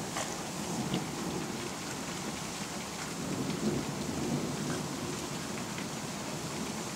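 Steady rain falling in a thunderstorm, with a low rolling rumble of thunder swelling and fading through the middle, and a few scattered drip ticks.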